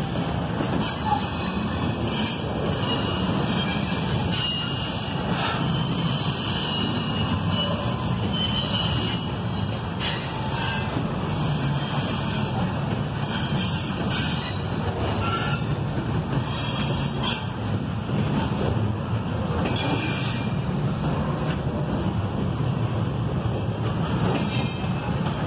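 Double-stack container well cars of an intermodal freight train rolling past: a steady rumble of steel wheels on rail, with short high wheel squeals and scattered clanks.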